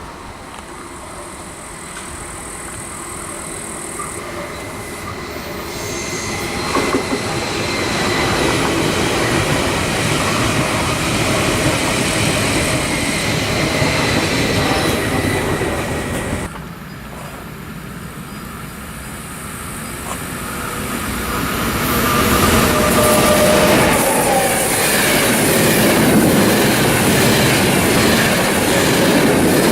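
A passenger or freight train passing at close range, its rolling noise building over several seconds to a steady loud rumble with faint high steady tones. The sound drops away suddenly about halfway through, then another train approaches and passes loudly near the end.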